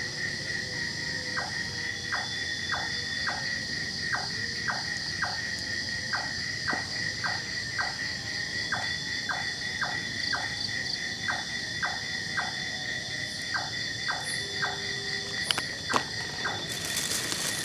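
Night-time chorus of insects trilling steadily on a high pitch, with a short falling call from an unseen animal repeating about twice a second. A few sharp clicks come near the end.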